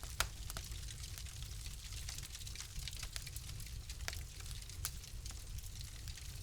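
Wood fire crackling in a fireplace: irregular sharp pops and snaps, the strongest just after the start, over a steady hiss and low rumble of the burning fire.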